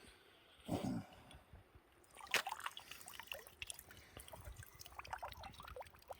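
Water dripping and splashing from a landing net holding a freshly caught small tench: a sharp knock about two seconds in, then irregular drips and small splashes.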